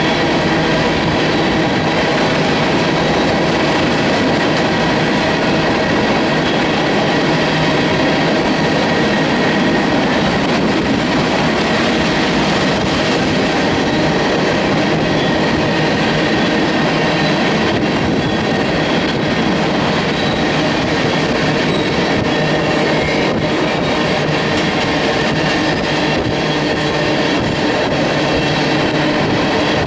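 Freight train's cars rolling past: a steady rumble of steel wheels on rail, with a high steady squeal.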